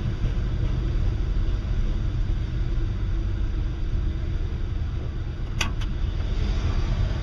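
Low, steady rumble of a freight train rolling by, with two quick clicks a little over halfway through.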